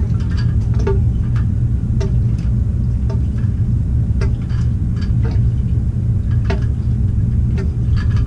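Irregular metallic clinks and ticks, some ringing briefly, of tools and fittings handled on plumbing pipework, about one or two a second, over a steady low machine hum.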